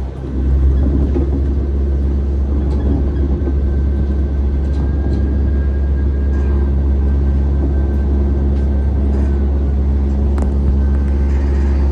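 Steady low hum and rumble inside a Tokyo Monorail car, with a faint high tone for a few seconds in the middle.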